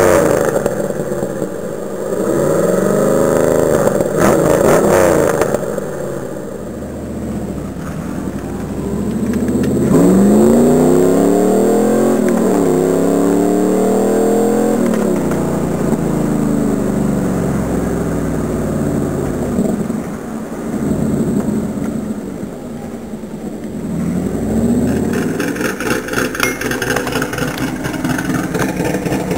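Pontiac Trans Am engine revving again and again, its pitch climbing and falling several times, with the strongest, steepest climbs about ten to fifteen seconds in.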